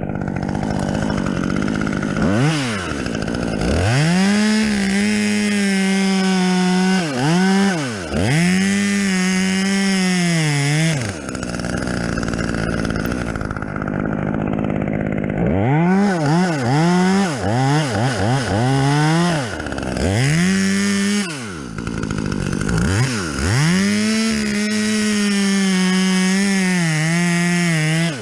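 Chainsaw revving hard and cutting wood. The throttle is let off and squeezed again many times, the engine pitch dropping and climbing back each time. It idles for a few seconds twice in the middle.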